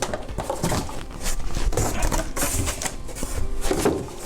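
Cardboard packaging being handled and shifted: a run of light knocks, taps and scraping rustles.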